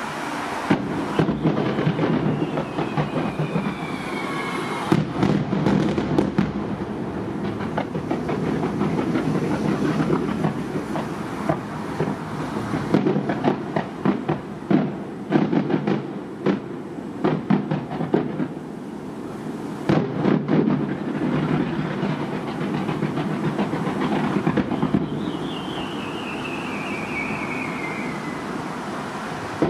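Aerial fireworks bursting over the bay in quick volleys of sharp reports that echo off the surrounding hills. Twice a whistling tone slides down in pitch: once near the start and once near the end.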